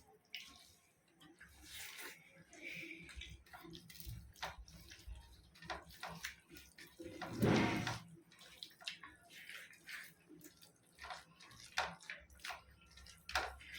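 Close-up wet eating sounds of rice and fish curry: irregular smacking and clicking of mouths and hands, with one louder burst about halfway through.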